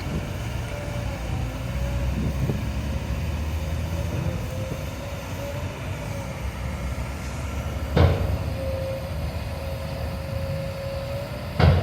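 Kobelco SK200 excavator's diesel engine running steadily under work, with a steady whine above the rumble. Two sharp loud clunks, one about eight seconds in and one near the end, from the digging and loading.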